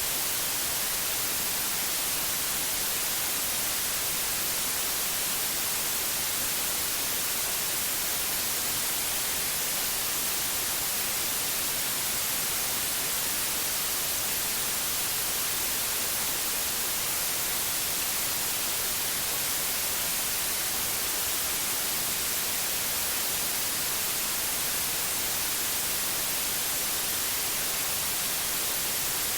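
Steady synthetic white noise: an even hiss with no changes, strongest in the high frequencies.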